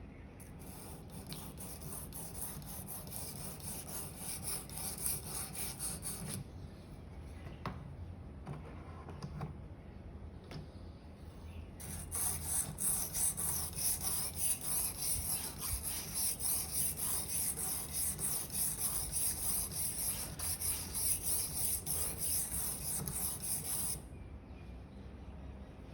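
Steel blade of a Victorinox 10 cm paring knife stroked back and forth across a 1500-grit sharpening stone, a rhythmic scraping rub. The strokes grow louder about halfway through and stop shortly before the end; this is the stage of working the edge to raise a burr on the finer grit.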